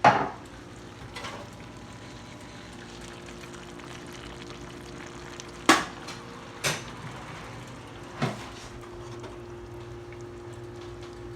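A spoon stirring red beans into rice in a pot, knocking against the pot about five times with sharp clinks, the loudest a little past halfway, over a steady low background.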